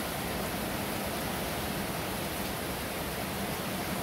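Heavy downpour: rain pouring down in a steady, even rush that does not let up.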